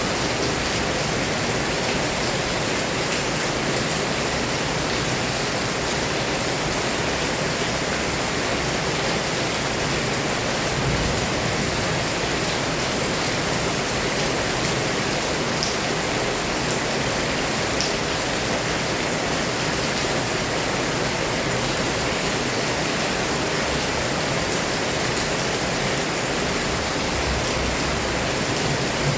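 Heavy rain pouring down steadily, a dense, even hiss that doesn't let up.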